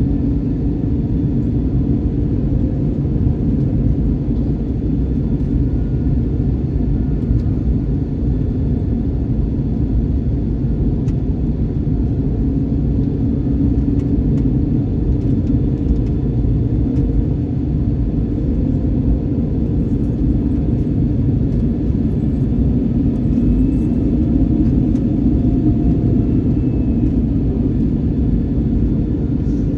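Steady low rumble inside an Airbus A321neo cabin: engine and airframe noise, running evenly with no sudden changes.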